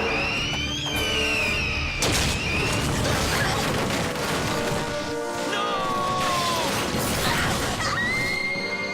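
Dramatic cartoon action score under the shrill, gliding screeches of a giant winged monster. A crash comes about two seconds in. Near the end a long, high cry bends downward.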